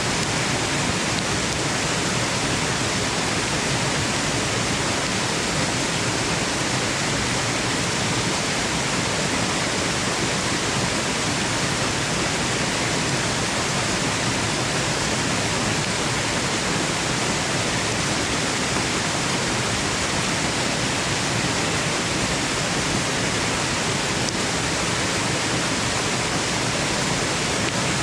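Waterfall rushing: a steady, even roar of falling water with no changes or separate events.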